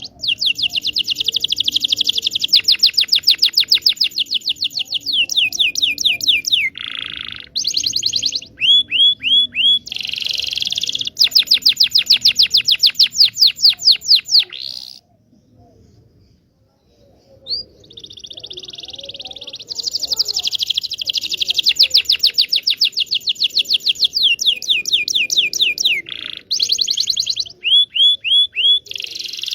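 Domestic canary (Indonesian local kenari) singing a long song of fast trills and rolling repeated notes, stopping for about two seconds midway and then starting the same sequence again. It is a lure song, played to teach young canaries to sing.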